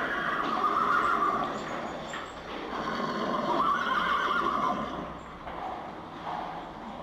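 Horse neighing: two long calls, the second starting about three seconds in.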